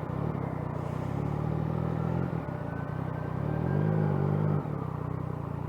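Yamaha FZ-09 motorcycle's three-cylinder engine running steadily at low speed, with a brief rise in revs about four seconds in that drops back.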